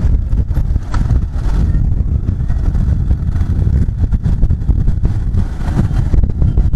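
Bajaj Pulsar 150 motorcycle being ridden along the road: its single-cylinder engine running, heard as a steady low rumble.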